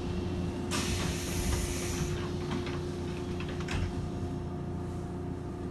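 117 series electric train: a burst of compressed-air hiss about a second in, lasting just over a second, then a few light clicks and knocks over a steady low hum and rumble.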